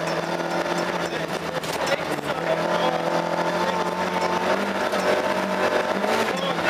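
Volvo 240 rally car's engine running hard at steady high revs, heard from inside the cabin, with tyre and gravel noise from the loose-surface road. The pitch dips briefly about two seconds in and rises briefly near the end.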